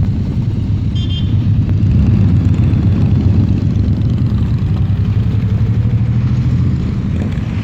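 Motorcycle engine running steadily, with a brief high tone about a second in.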